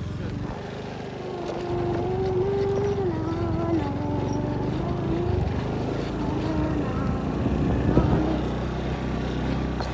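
Small motorcycle engine running steadily as the bike rides along at low speed, with a wavering pitched hum over it for several seconds in the middle.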